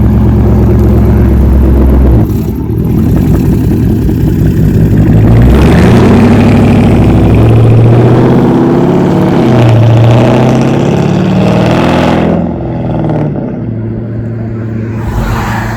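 Dodge Charger R/T's 5.7-litre Hemi V8 running loud, its pitch rising and falling in the middle, then settling to a steady idle for the last few seconds.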